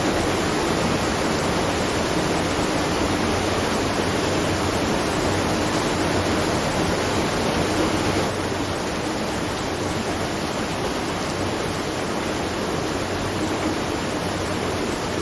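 Steady rush of water at a watermill, a continuous even splashing noise with no distinct knocks or rhythm, easing slightly about eight seconds in.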